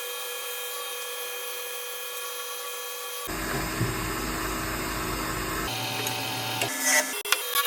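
Wood lathe running with a steady whine, and a tool or abrasive rubbing on the spinning wood. The sound changes abruptly about three seconds in and several times near the end.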